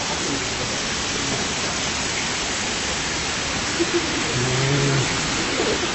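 Steady rush of running water in a gorge, with a brief low voice about four to five seconds in.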